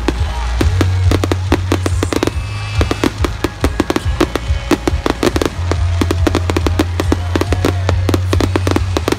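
Aerial fireworks display: shells and crackling stars bursting in rapid succession, several sharp bangs a second. Music with low bass notes plays underneath.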